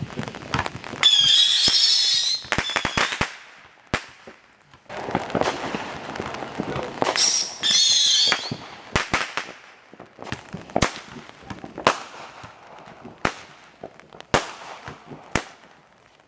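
Fireworks going off: two loud wavering whistles, each trailed by crackling, then a string of sharp bangs about a second apart.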